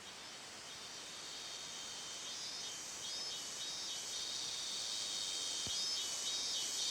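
Cicadas buzzing: a steady high-pitched drone that slowly grows louder, with a brief wavering swell twice.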